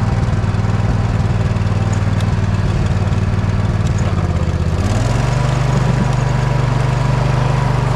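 Poulan riding mower's engine running steadily while pushing a snow plow; about five seconds in its pitch steps up and holds higher.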